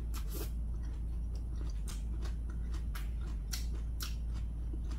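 Close-up chewing of a mouthful of rice with wild lettuce kimchi: small, irregular mouth clicks and wet chewing. A steady low hum runs underneath.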